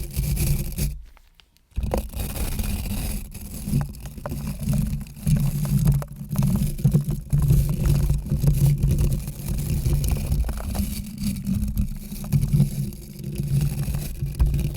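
Close-miked scraping and rubbing, the kind used as an ASMR trigger, with a brief pause about a second in.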